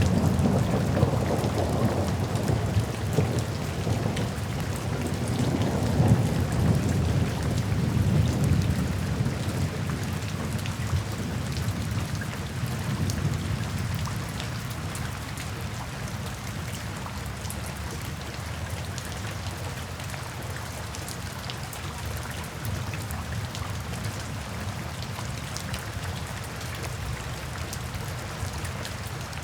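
Steady rain with fine drops pattering, and a low thunder rumble over the first half that gradually fades out, leaving only the rain.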